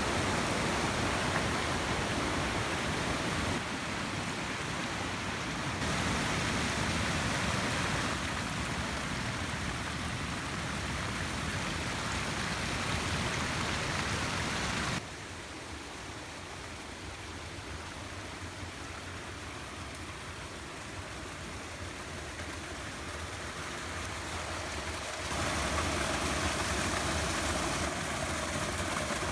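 Steady rushing noise of hurricane weather, wind and rain, broken into several clips that change abruptly; quieter and duller in the middle stretch.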